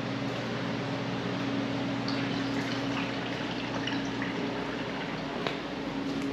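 A steady machine hum with a low, even drone and a few faint scattered ticks.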